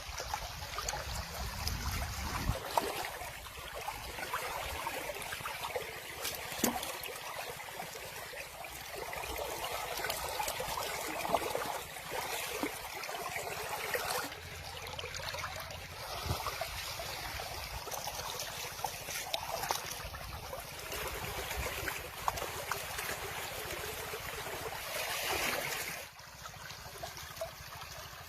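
River water flowing and trickling steadily, with a few brief knocks or splashes.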